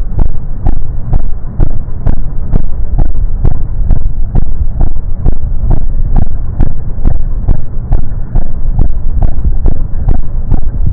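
Royal Enfield Classic 350's single-cylinder four-stroke engine idling with a slow, even thump, about two beats a second over a steady low rumble.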